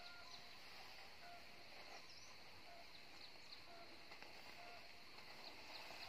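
Near silence: faint outdoor ambience with scattered short, faint bird chirps.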